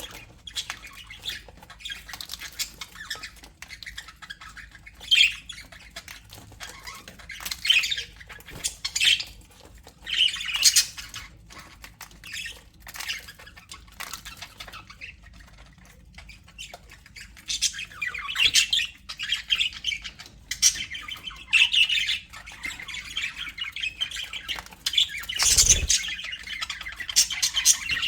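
A flock of budgerigars chattering, with bursts of chirps and squawks, and wing flaps. About three-quarters of the way in there is one louder thump.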